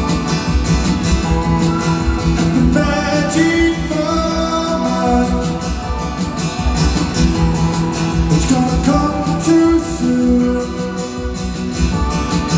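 Live rock band playing between sung lines: guitars over a steady drum beat.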